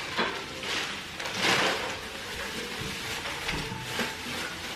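Plastic wrapping crinkling and rustling as it is handled, in several uneven bursts.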